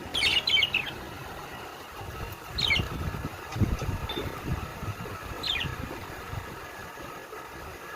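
Pet birds calling: three short chirps that fall in pitch, a couple of seconds apart, over a low rumbling noise in the middle.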